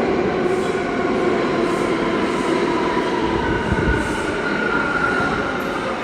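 New York City subway train running loud and steady, with a high whine from the wheels or motors that rises in pitch about halfway through.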